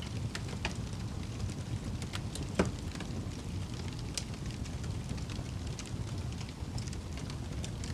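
Wood fire crackling over a steady low rumble, with scattered small snaps and one louder pop about two and a half seconds in.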